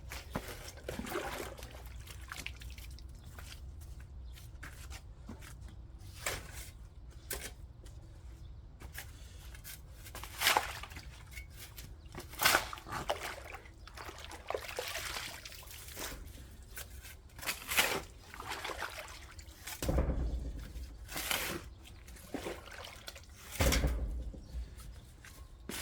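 Water splashing and trickling onto wet soil in short irregular bursts, with two heavier thudding splashes near the end.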